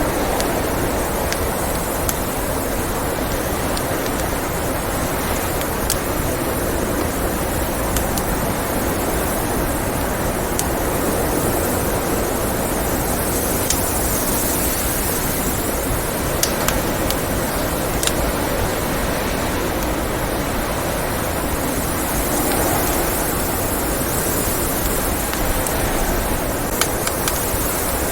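Blizzard wind blowing steadily in slow swells, with the scattered sharp pops and crackles of a wood fire.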